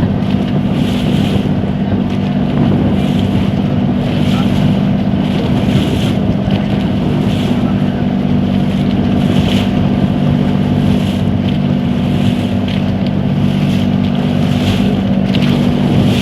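Motorboat engine running at a steady drone under way, with rushing wind and water and a splash against the hull about once a second.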